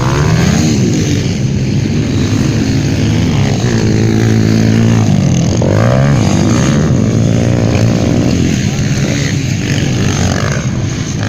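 150cc motocross bike engine revving hard, its pitch climbing and dropping again and again as the throttle opens and closes, with a deep dip and climb about halfway through.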